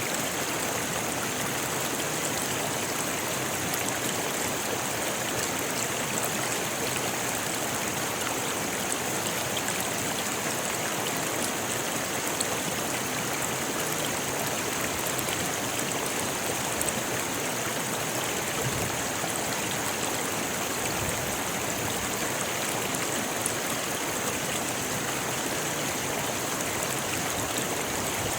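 River water running over rocks: a steady, even rush with small splashes and trickles.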